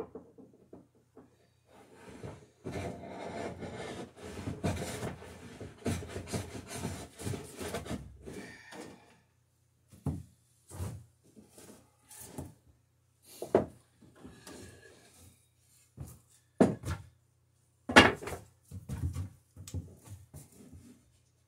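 Wooden boat rail being scraped by a scratch-stock beading tool whose cutter is the end of a steel screw, cutting a bead and taking narrow shavings: several seconds of rapid scraping strokes, then separate shorter strokes and knocks about a second apart.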